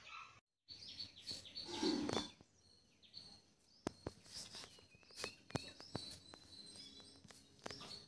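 Faint chirping of birds, with scattered sharp clicks and one louder, brief noise about two seconds in. The sound drops out for a moment just before half a second in.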